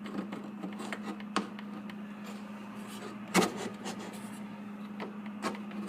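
Homemade wooden shelf barrier being worked into a fridge door, a tight fit: scattered light knocks and rubs of wood against the door, with one louder knock about three and a half seconds in, over a steady low hum.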